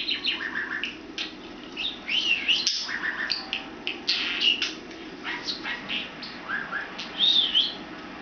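Pet budgerigar chirping and warbling: a string of short quick chirps and rising-and-falling whistles, over a low steady hum.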